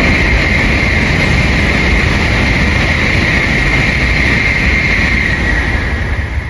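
N700A Shinkansen train moving along the station platform: a steady, loud rumble with a rushing hiss.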